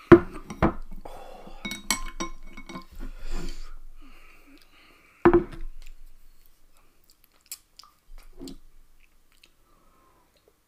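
A person chewing a mouthful of instant noodles, with chopsticks clinking against a glass bowl. Sharp knocks come at the start and again about five seconds in, and then only faint scattered clicks follow.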